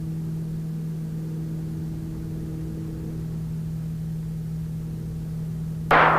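Steady drone of a twin-engine Piper Navajo Panther conversion's engines and propellers in the climb, a level hum. Near the end a sudden short, loud burst of noise breaks in.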